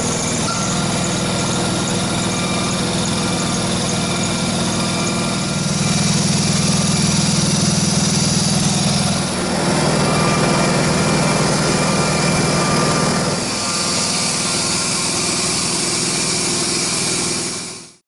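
ABAC B741 air compressor running with a steady mechanical hum; its tone shifts a few times and then cuts off abruptly near the end.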